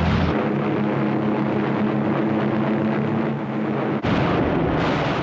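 Heavy engines droning steadily over a rumbling background, as battle sound effects, with a sudden break about four seconds in.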